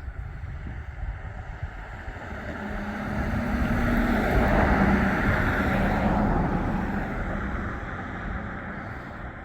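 A road vehicle driving past, growing louder to a peak about halfway through, with a steady low hum from engine and tyres, then fading away.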